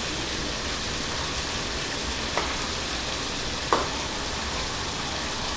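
Chicken pieces frying in hot oil, a steady sizzle, with two light knocks about two and a half and nearly four seconds in.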